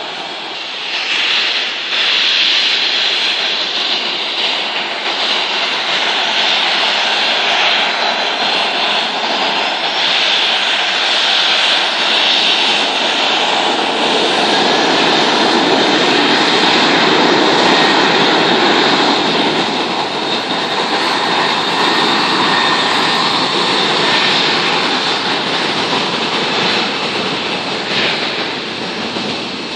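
Airplane taking off: steady, loud engine noise that swells about a second in, is loudest around the middle, and eases slightly near the end.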